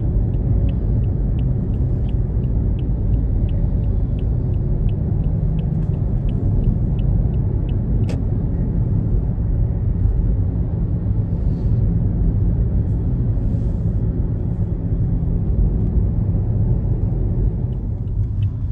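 Steady low rumble of a car's engine and tyres heard from inside the cabin while driving. A turn-signal indicator ticks about three times a second for the first few seconds and starts again near the end.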